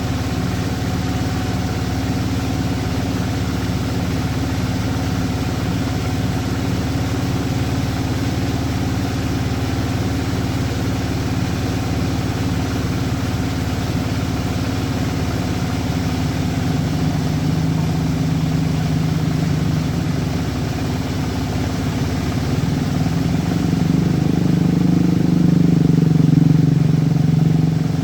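An engine running steadily with a low hum, swelling louder for a few seconds in the last third.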